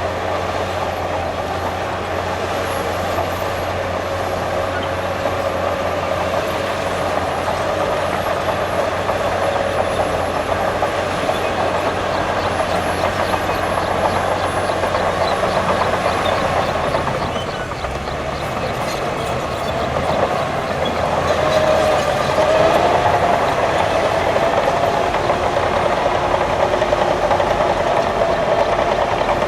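Heavy diesel earthmoving machinery running continuously under load, with a short dip about 18 seconds in and a change in engine pitch soon after.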